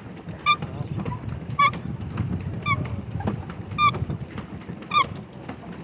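Paddle boat's pedal drive squeaking once per pedal turn, a short pitched squeak repeating evenly about once a second, over the low churn of the paddle wheel in the water.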